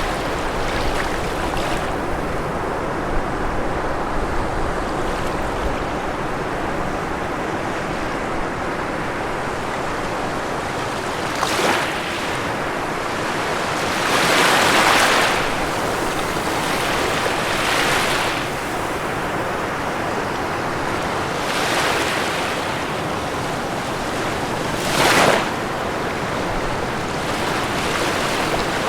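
Ocean waves breaking on a shore: a continuous wash of surf, with several waves swelling louder and breaking, the biggest about halfway through and a sharp one near the end.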